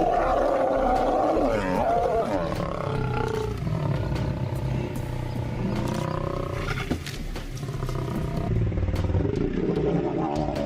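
Large wild animals calling: long, drawn-out cries whose pitch bends up and down, then holds steadier for a few seconds.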